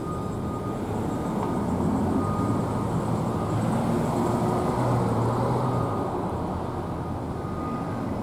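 Low, steady engine rumble that swells a little in the middle and then eases off.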